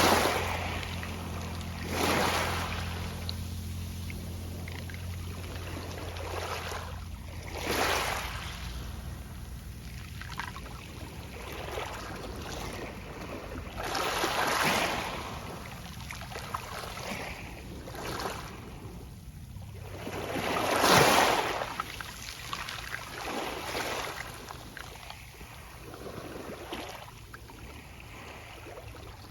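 Small sea waves washing onto a pebble beach, each wash rustling and rolling the pebbles, in surges every few seconds, the largest about 21 seconds in.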